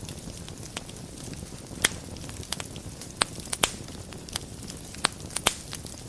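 Fire burning in a fireplace, crackling: sharp, irregular pops, about ten of them, over a low, steady rush of flame.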